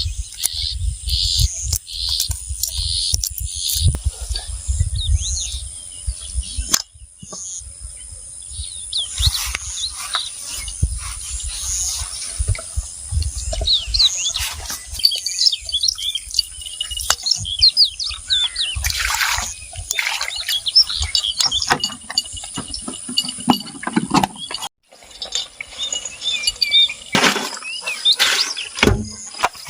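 Outdoor nature ambience of birds chirping and calling over a steady high hum. For the first several seconds one call repeats about three times a second. Then come scattered chirps, and the sound changes abruptly twice.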